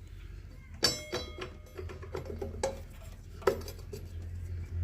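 Metal clanks and clinks of tools and engine parts being handled as a cover is worked off a small engine. The loudest clank rings briefly about a second in, followed by scattered lighter clinks and another clank about three and a half seconds in, over a steady low hum.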